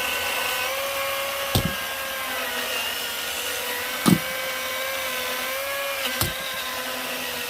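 Cordless battery chainsaw running with a steady electric whine, broken by three dull thumps about two seconds apart.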